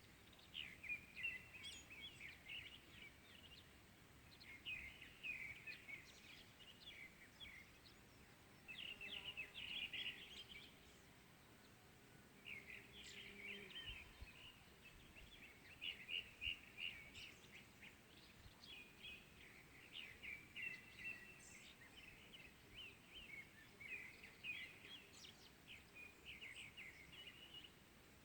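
Small birds chirping and twittering in quick, faint clusters of short notes: morning birdsong.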